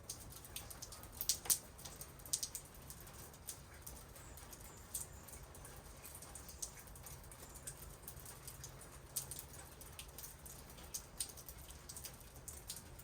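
Raindrops dripping and tapping irregularly on surfaces: scattered sharp ticks, a few a second, over a faint steady low background hum.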